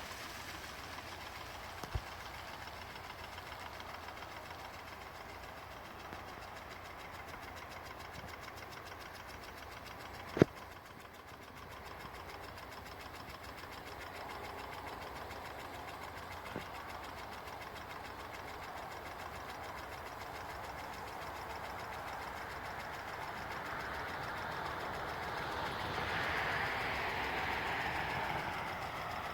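Water-turbine drive of a 1989 Odra hose-reel irrigator running: a steady, rhythmic mechanical clatter over rushing water. There are a few sharp clicks, one loud one about ten seconds in, and the sound swells near the end.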